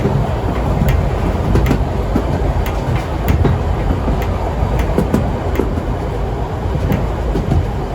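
Heritage steam train rolling along the track: a steady low rumble with irregular sharp clicks and knocks from the wheels on the rails.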